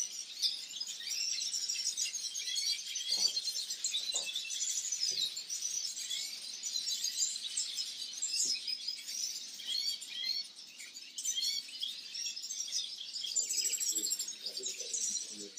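Dense chorus of many small caged birds, finches among them, chirping and twittering all at once: a constant tangle of quick, high calls with no single song standing out.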